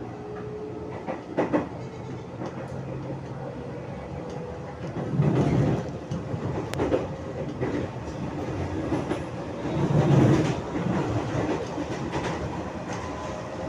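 KRL electric commuter train wheels clacking over rail joints: groups of knocks over a steady running rumble, the loudest sets about five and ten seconds in.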